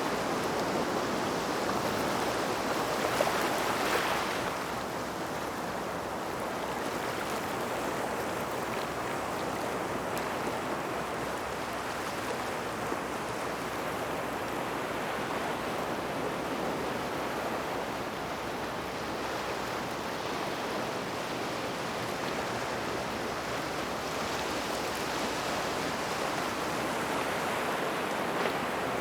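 Small waves washing in and out at the edge of a gravel beach beside rocks, a steady wash of water over stones, with one louder wave breaking about three to four seconds in.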